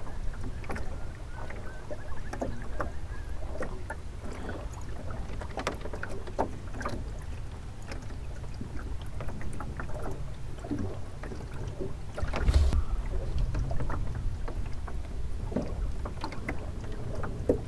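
Small sailing dinghy under way: water splashing and lapping at the hull, with scattered knocks and clicks from the boat over a steady low wind rumble on the microphone. A louder burst of noise comes about twelve and a half seconds in.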